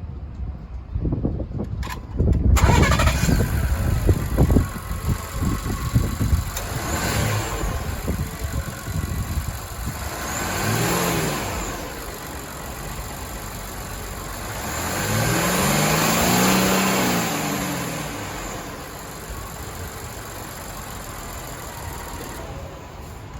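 2020 Ford T350 van engine cranking and catching about two and a half seconds in, then idling. It is revved three times, the longest rev rising and falling slowly near the end, before it settles back to idle.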